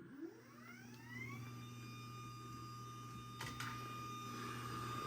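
Craftsman 139.57915 belt-drive garage door opener motor starting up to close the door: a rising whine that levels off within about a second into a steady running whine over a low hum, with a couple of faint clicks midway. Its drive belt is loose, as the owner knows.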